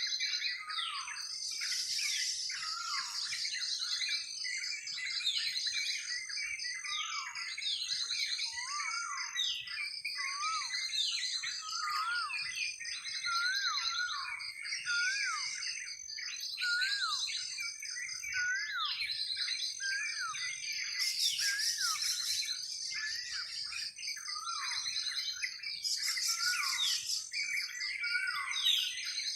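Dense chorus of many songbirds chirping and whistling at once, with overlapping short calls and quick falling notes, over a steady high trill.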